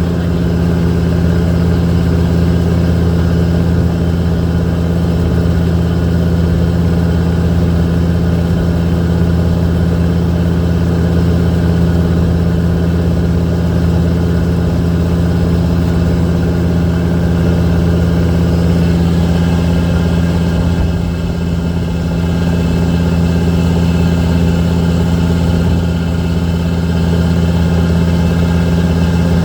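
Boat engine running steadily at an even speed, a constant low hum, dipping slightly in loudness about two-thirds of the way through.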